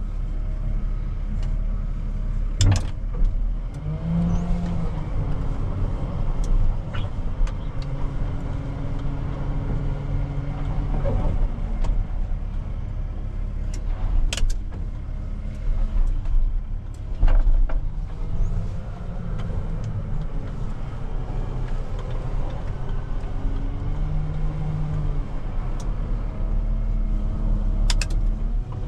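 Heavy diesel engine running steadily, a low drone whose pitch shifts slightly now and then, with a few sharp clicks or knocks.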